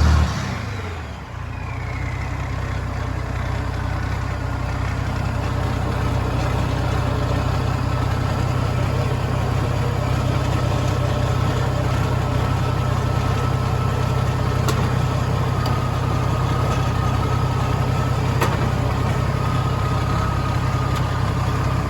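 Tractor engine dropping from a higher speed to idle right at the start, then idling steadily with a faint steady whine.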